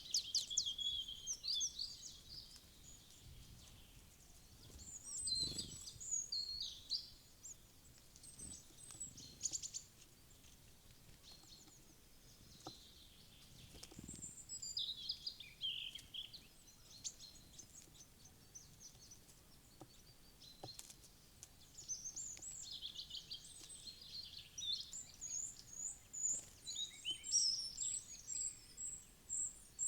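Small wild songbirds chirping and calling in bursts, several birds overlapping, with a quick run of repeated high notes near the end.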